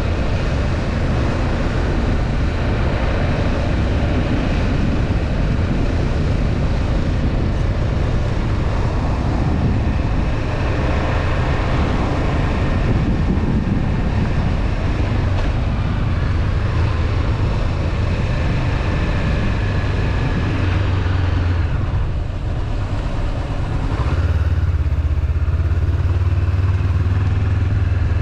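Honda CB500F parallel-twin engine running while riding, with wind rush over the camera microphone; a little over twenty seconds in the wind noise drops away and the engine settles to a steady low idle.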